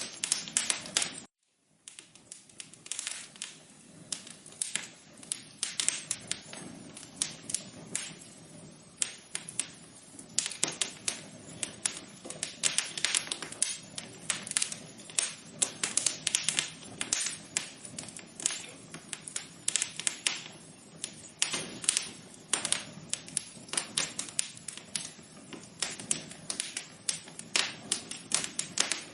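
Wood fire crackling: a dense, irregular run of sharp pops and snaps over a low hiss. It cuts out briefly about a second and a half in.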